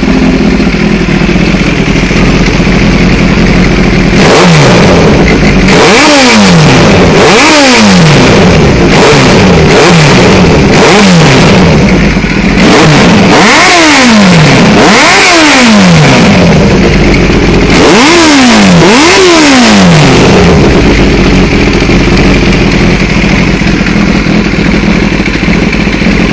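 Kawasaki ZX-7R inline-four sport bike engine breathing through a Dominator aftermarket exhaust. It idles, then is blipped about ten times in three quick bursts, each rev climbing sharply and falling back, then settles to idle again. Loud.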